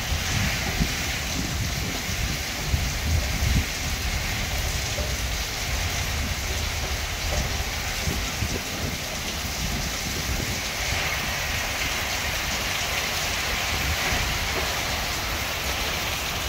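Torrential monsoon rain pouring steadily onto buildings and foliage: a dense, unbroken hiss with a low rumble underneath.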